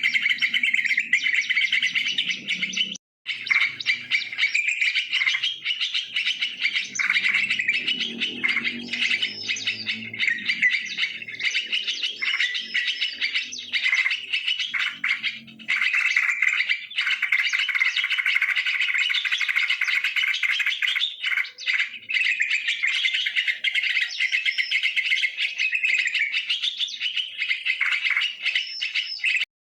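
Yellow-vented bulbuls (trucukan) chirping and calling in a steady, dense stream, with two brief gaps about 3 and 16 seconds in.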